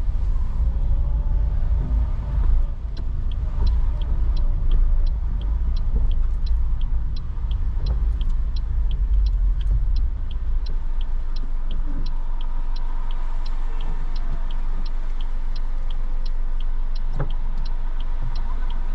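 Inside a moving car: low engine and road rumble, with the turn-signal indicator relay ticking steadily from about three seconds in, in tick-tock pairs about every 0.7 seconds. The low rumble eases about halfway through.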